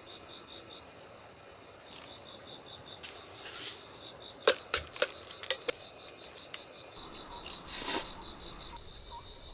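Insect chirping in a steady, high, pulsing trill of about five pulses a second. A run of sharp clicks and knocks, the loudest sounds here, falls about halfway through, with brief rustling just before and again near the end.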